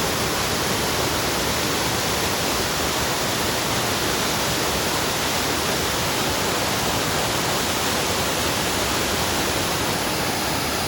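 Waterfall: the steady, unbroken rush of water falling and splashing.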